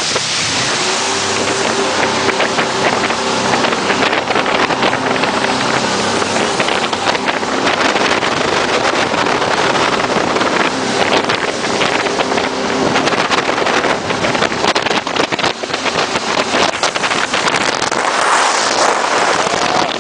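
Jet boat running on the water: a steady engine drone under a loud rush of water and wind, with wind buffeting the phone's microphone.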